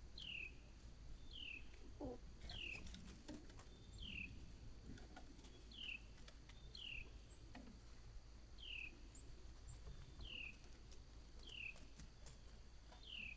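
A songbird repeating a clear whistled call every second or so, each a short level note followed by a falling slur. Faint scattered ticks and rustles sound between the calls.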